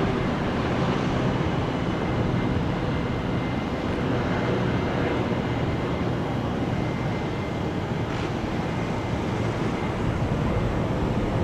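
Jet airliner engines running steadily, a continuous rumble with a faint steady whine.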